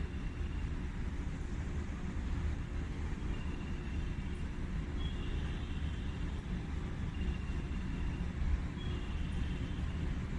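Steady low rumble of station and distant traffic ambience, with a few faint, short high-pitched tones now and then.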